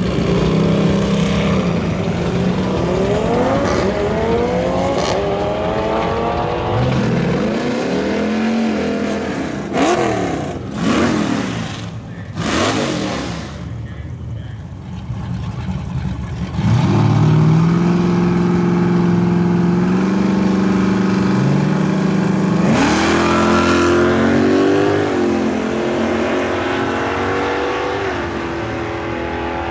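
A car engine accelerating hard. Its pitch climbs and drops back several times, as at gear changes, with a loud whooshing pass in the middle.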